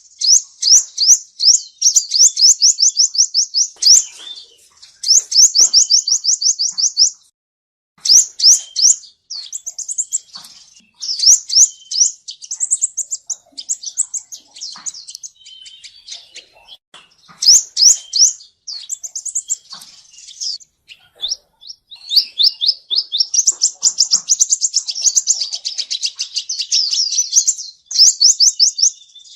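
Male sunbird (the Vietnamese 'seven-colour sunbird') singing: fast trills of high, repeated notes, about ten a second, in runs of a few seconds with short breaks and a longer, busier twittering run near the end.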